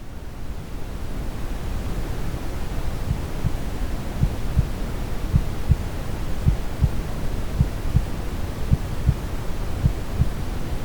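Deep brown noise, a steady low rumbling hiss, fading in over the first second or so. From about three seconds in it carries irregular soft low thumps.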